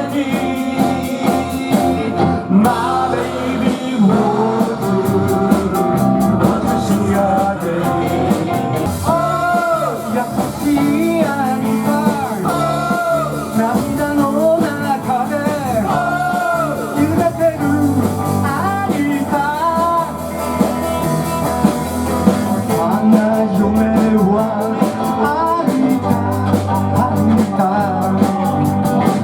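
Live band playing 1960s-style guitar rock, with an electric lead guitar carrying a melody with bent, wavering notes over the band.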